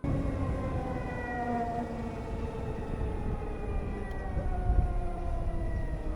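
Harley-Davidson LiveWire electric motorcycle motor whine: several high tones slowly falling in pitch as the bike slows, over a heavy rumble of wind.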